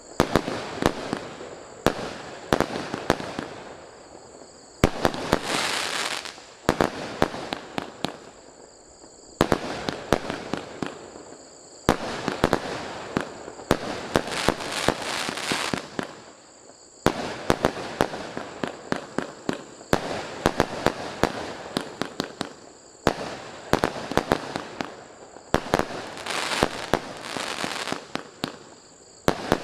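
A 150-shot, 0.8-inch-calibre fireworks cake firing: quick runs of sharp shots every couple of seconds, with long stretches of dense crackling in between.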